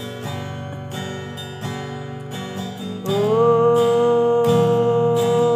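Acoustic guitar strummed in an even rhythm. About three seconds in, a long held note joins, sliding up slightly and then holding steady over the strumming.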